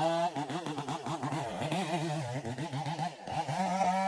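Two-stroke chainsaw engine being revved up and down in quick throttle blips, about three a second. About three and a half seconds in it holds at a steady high speed.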